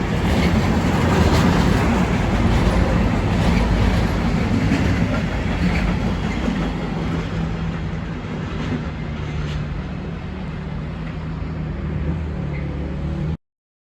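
Train running past on the line, a steady rumble with occasional wheel clicks, slowly fading. The sound cuts off abruptly near the end.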